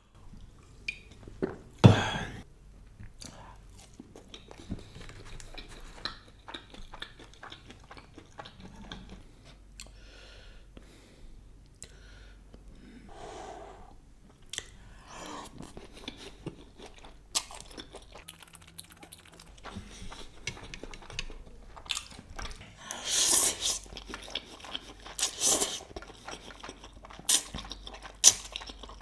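Close-miked eating: a person chewing and slurping instant noodles, with small clicks throughout and louder slurps between about 22 and 26 seconds in.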